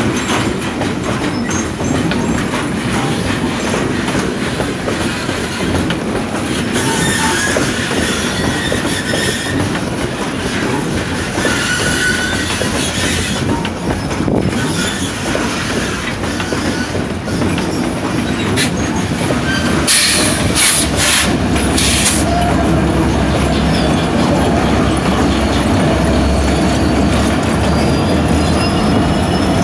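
Loaded freight wagons rolling past with steady wheel clatter and wavering wheel squeal in the first half. About twenty seconds in come a few sharp bursts of high hiss, and a diesel locomotive's low engine rumble builds as the locomotive draws close near the end.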